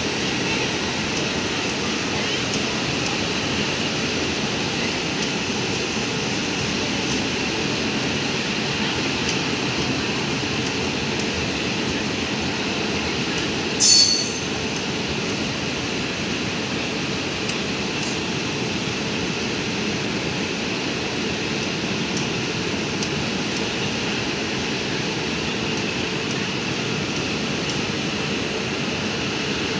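Passenger train coaches rolling past on the rails, a steady wheel-and-track noise, with a short, sharp, high-pitched squeal about halfway through.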